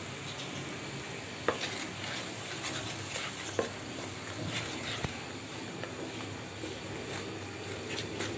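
Thick spice-and-onion masala sizzling in oil in a frying pan as it is fried down, stirred and scraped with a wooden spatula. A few sharp knocks of the spatula against the pan stand out, the loudest about a second and a half in and again a little past the middle.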